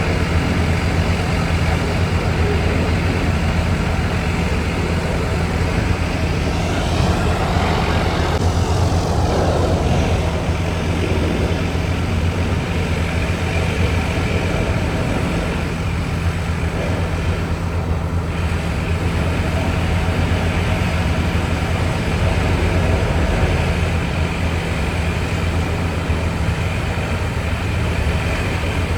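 Logging truck's diesel engine running steadily under way, a constant low drone with road noise. A brief sweeping hiss rises and falls about seven to ten seconds in.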